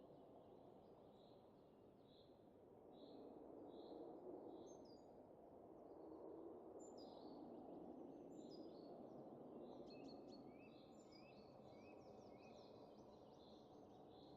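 Soft winter wind, a low rushing that swells and eases, with small birds chirping repeatedly and, from about ten seconds in, a quick run of higher chirps.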